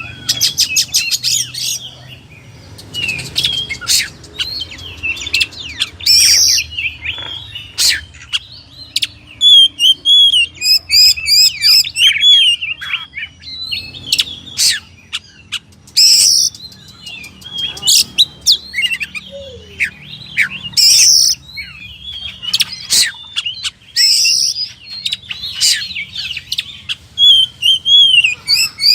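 Oriental magpie-robin (kacer) singing a long, varied song of clear whistles, fast repeated trills and sharp chattering notes.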